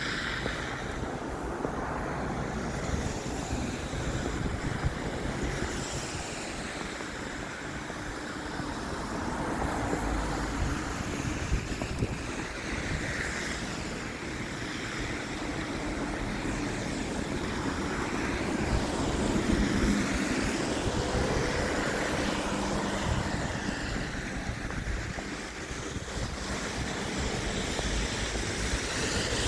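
Steady rushing outdoor noise of wind and traffic, with no distinct events.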